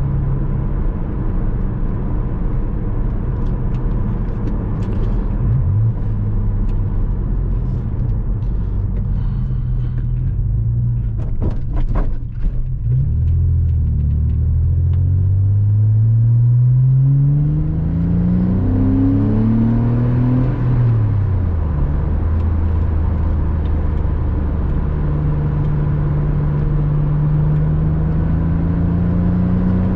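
Porsche Boxster 986 flat-six engine driving at speed. It holds a steady pitch, then after a brief dip with a few clicks about twelve seconds in, it climbs in pitch as the car accelerates. The pitch drops sharply around twenty seconds in, then holds steady and slowly climbs again near the end.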